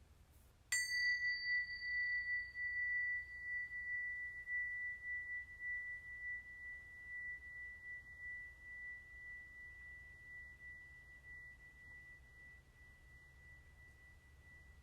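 A small metal chime or bell-like instrument struck once, about a second in. Its brief bright overtones die quickly, leaving one high, pure tone that wavers slightly and fades slowly.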